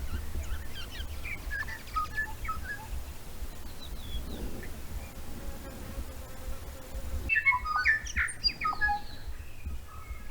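Several songbirds chirping and whistling in short scattered notes, the calls growing busier and louder after a cut about seven seconds in, over a steady low rumble.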